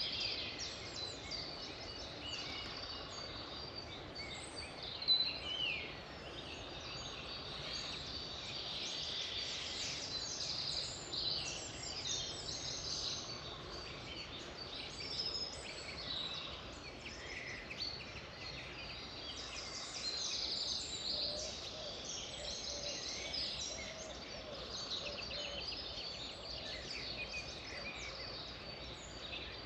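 A chorus of many songbirds chirping and trilling over one another, over a steady background hiss, with one brief louder sound about five seconds in.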